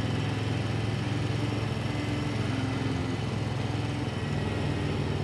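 Motorcycle engine running steadily at a constant cruising speed, an even hum with no gear change or rev.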